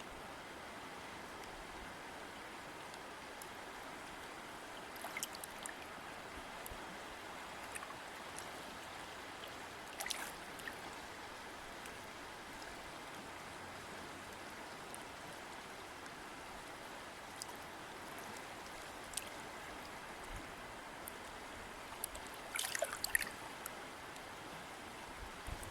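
River water flowing steadily over stones, with a few brief splashes and drips, the clearest about 5, 10 and 23 seconds in.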